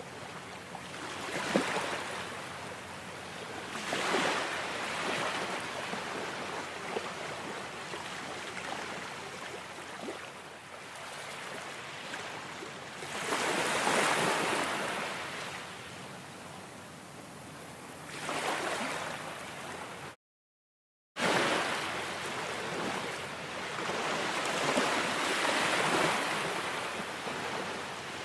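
Ocean waves washing onto a shore, the surf swelling and falling away every few seconds. The sound cuts out completely for about a second roughly twenty seconds in.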